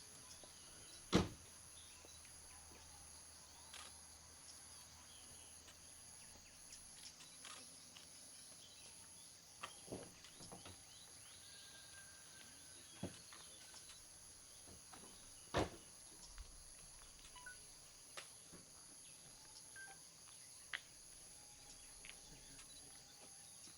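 Faint steady chorus of insects, a high, finely pulsing chirring, with scattered sharp clicks or snaps; two louder snaps come about a second in and about fifteen seconds in.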